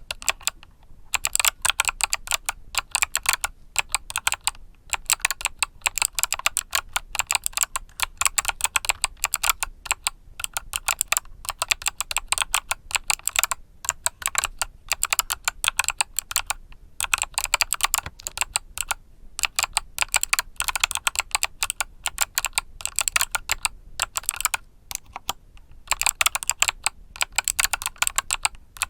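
Mechanical keyboard with Kailh Box Summer switches being typed on continuously: rapid, dense key clicks with a few brief pauses.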